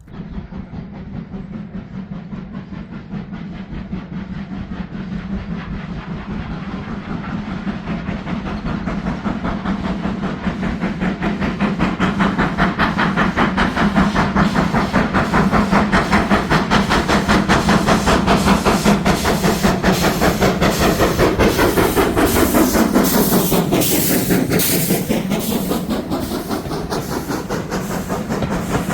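Steam-hauled train approaching and passing, with rapid exhaust beats and steam hiss growing louder, then a sweep in pitch as it goes by about 24 seconds in.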